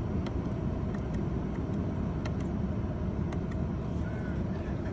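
Mercedes S600's twin-turbo V12 idling steadily, heard from inside the cabin, with a few faint clicks over it.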